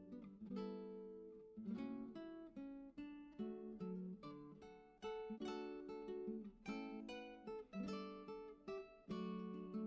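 Background music: acoustic guitar played with plucked, strummed chords.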